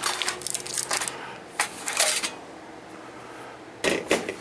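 Short clicks and rustles of hands working on the parts inside an opened LCD monitor, with a louder rustle near the end.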